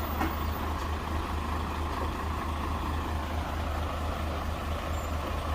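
Heavy truck engine running steadily nearby, a constant low rumble.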